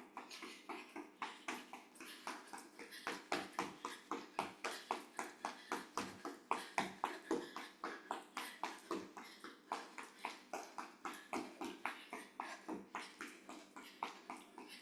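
Footsteps of brisk marching in place in running shoes, an even beat of about three to four steps a second.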